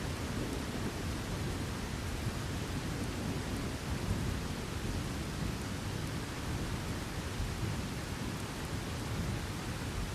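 Steady heavy rain with a low, rolling rumble of thunder underneath.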